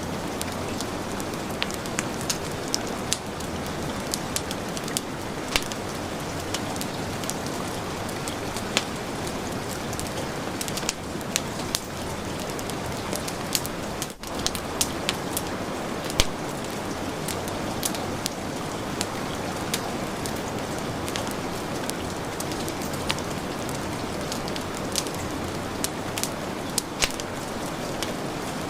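Heavy rain falling steadily, mixed with a wood fire crackling, its sharp pops and snaps coming irregularly every second or so over the rain's hiss.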